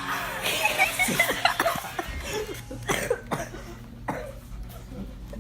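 A person coughing and laughing, with several short sharp coughs.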